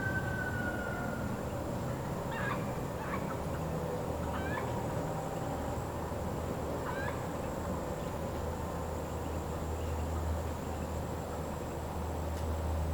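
A rooster crowing, its long held final note sliding slightly down and ending about a second and a half in, then a few short bird calls, over a steady low rumble.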